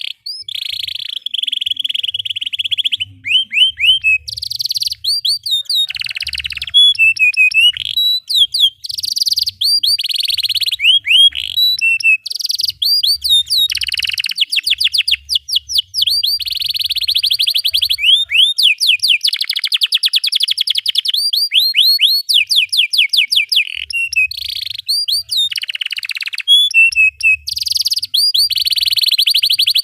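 Canary singing a long, almost unbroken song of rapid rolling trills, fast repeated down-slurred chirps and brief buzzy notes.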